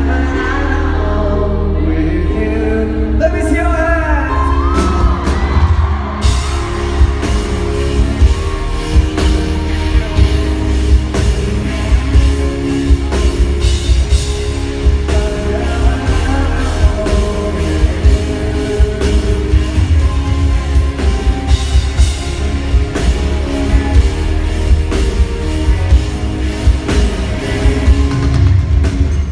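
Live pop band and singer in a large hall: held chords and a gliding singing voice, then a steady drum beat comes in about six seconds in and carries on under the music, with some shouts from the crowd.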